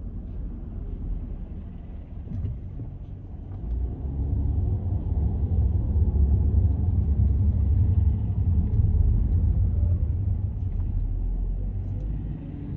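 Low road and engine rumble of car traffic on a city street, swelling about four seconds in and easing off near the end.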